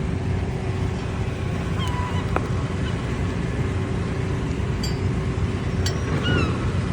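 Herring-gull-type seagull calls, a couple of short cries about two seconds in and again near the end, over a steady low rumble of traffic or wind.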